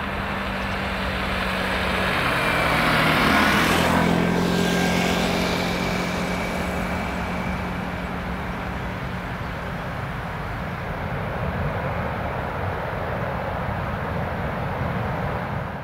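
Bombardier CRJ-900 regional jet's twin turbofans at takeoff thrust, growing louder until the jet passes about three to four seconds in, when its whine drops sharply in pitch. A steady jet rumble follows as it departs.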